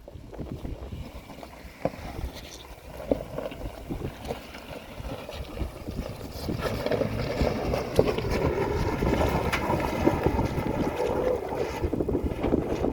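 Off-road vehicle engine running as it crawls over a rocky trail, with scattered knocks and wind buffeting the microphone. It grows louder about six seconds in.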